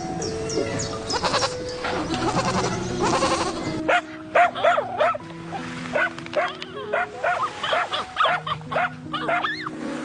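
Animal calls over cheerful background music, with many short, arching calls repeating from about four seconds in.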